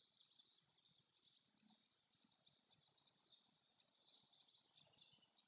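Faint forest birdsong: many short, high chirps and twitters from several small birds.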